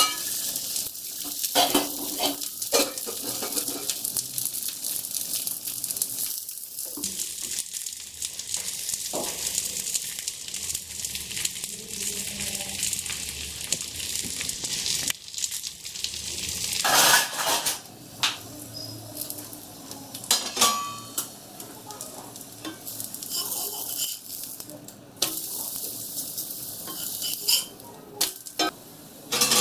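Thalipeeth flatbread sizzling on a hot griddle, with scattered knocks and scrapes of a metal spatula against the pan: a louder one about 17 seconds in and several near the end as the flatbread is lifted to be turned.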